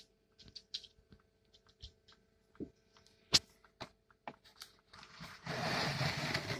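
Pipped chicken eggs with chicks inside: faint scattered taps and short high peeps, with one sharper click about three and a half seconds in. A burst of rustling noise starts about five seconds in and runs to the end.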